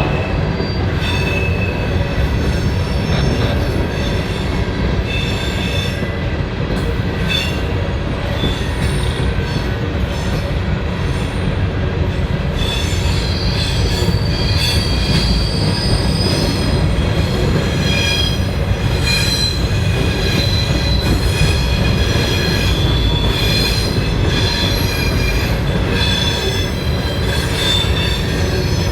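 A train rolling past with a steady low rumble of wheels on rail, and its wheels squealing in several high, shifting tones.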